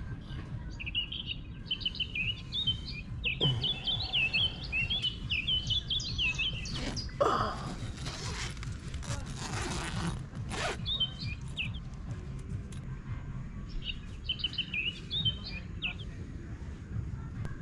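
Birds chirping in quick, repeated twittering phrases, in several spells, over a steady low outdoor rumble. A few seconds of rustling noise stand out in the middle.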